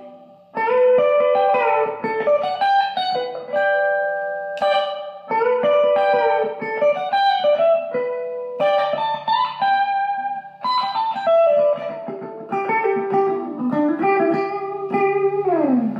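Electric guitar playing country-style lead licks through the G to D to G (1-5-1) chord change: a string of plucked notes and double-stops with several string bends, ending with a slide down in pitch just before the end.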